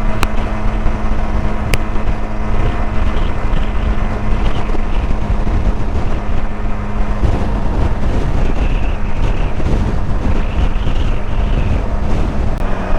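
Benelli TRK 502X parallel-twin motorcycle engine running at highway cruising speed, with wind rushing over the microphone. The engine note changes about seven seconds in.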